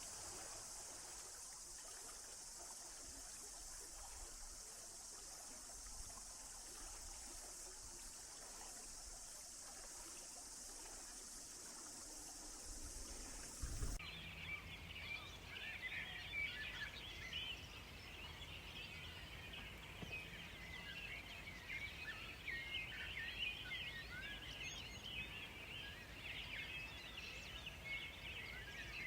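Steady rush of flowing forest stream water, which cuts off abruptly about halfway through, giving way to a busy chorus of songbirds, many short chirps overlapping.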